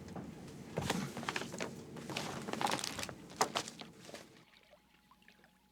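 Irregular small clicks and rustles, as of objects being handled, stopping about four and a half seconds in.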